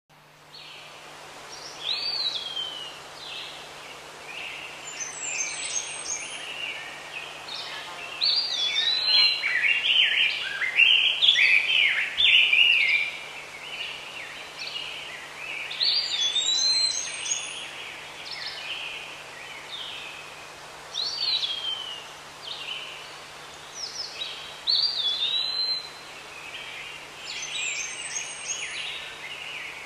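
Birds calling and singing: short whistles and chirps, many sliding down in pitch, repeating every few seconds. The calls are busiest and loudest for several seconds about a third of the way in.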